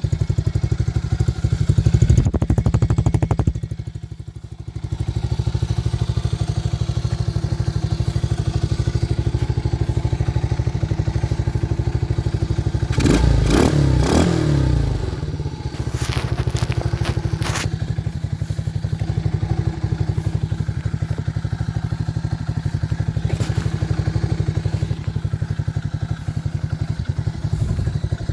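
Quad bike engine running steadily, dipping briefly about four seconds in and revving up and down about halfway through, with a few sharp knocks just after.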